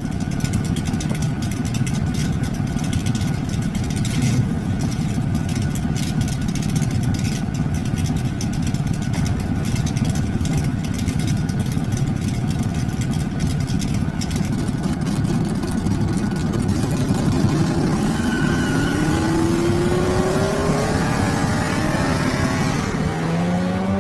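Car engine running at a steady rumbling idle with crackling from the exhaust, then, about three-quarters of the way through, its pitch climbs steadily as it revs up and accelerates, with a second rising run starting near the end.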